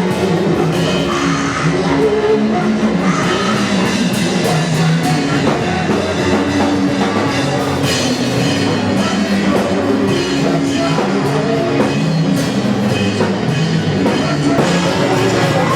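Live band music with drum kit and electric instruments playing a steady, loud groove.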